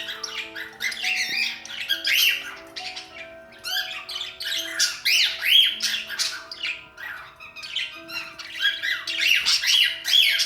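Young cockatiels calling in rapid bursts of rough, chirping notes as they practise whistling, over a quieter melody of held notes.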